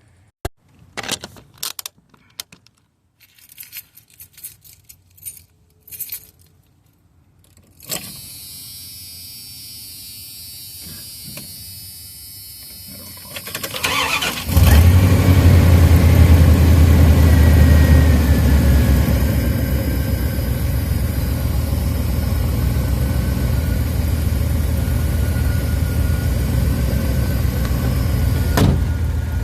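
Scattered clicks and a jangle of keys, then a steady faint hum from about eight seconds in. About fourteen seconds in, the 1992 Dodge B250 van's engine cranks and starts, running fast at first and settling to a steady idle on freshly installed spark plugs.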